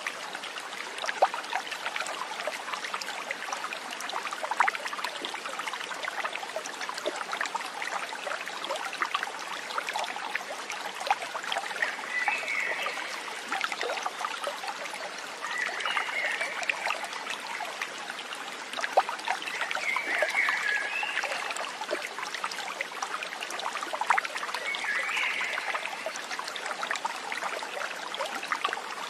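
Small stream trickling and babbling, a steady wash of water with many small splashes. Over it, a short, high warbling call repeats four times, about every four seconds, in the second half.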